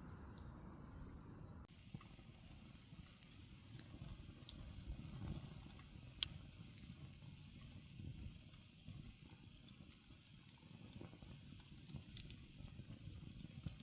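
Small wood fire crackling, with scattered sharp pops, the loudest about six seconds in, over a low rumble of wind-like noise.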